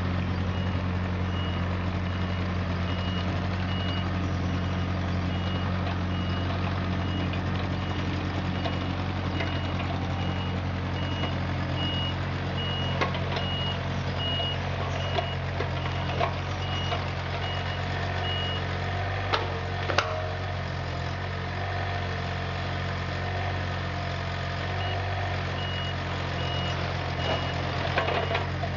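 Compact excavator's diesel engine running steadily while its travel alarm beeps in an even repeating pattern. The beeping pauses about two-thirds of the way through and starts again shortly before the end, and a few sharp knocks sound in the second half.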